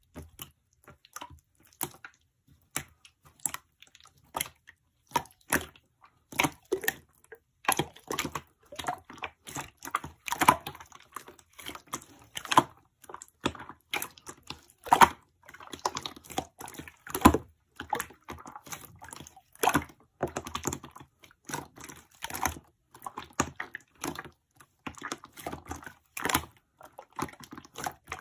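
Glitter slime being pressed and worked by hand, giving a run of irregular wet clicks and small pops, a few a second, with no speech.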